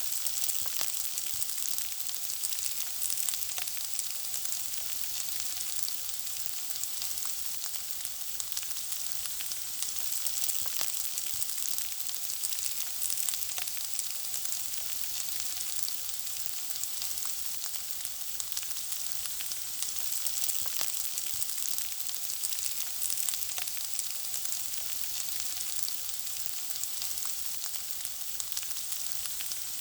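Food frying in hot oil: a steady high sizzle full of small, closely spaced crackles and pops.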